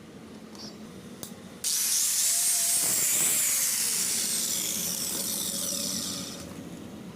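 Repaired Bosan angle grinder switched on about one and a half seconds in and running free at full speed with a high whine for about four and a half seconds, then switched off and dying away: a test run after the repair.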